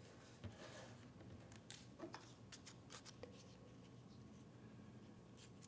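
Faint, scratchy rubbing and a few light taps of a glue stick being worked over small paper pieces.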